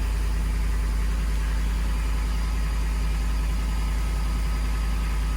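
Lincoln Navigator's 5.4-litre Triton V8 idling steadily just after a cold start in sub-zero cold.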